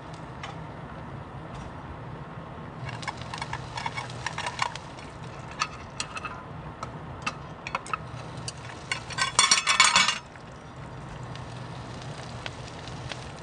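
Dishes and cutlery clinking as they are handled: scattered clinks from about three seconds in, then a quick dense run of them just before ten seconds.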